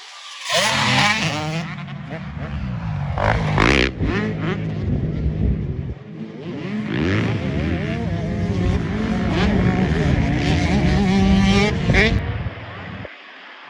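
Several off-road racing engines revving up and down, overlapping, as the machines race around a motocross track. The sound dips briefly about six seconds in and drops off near the end.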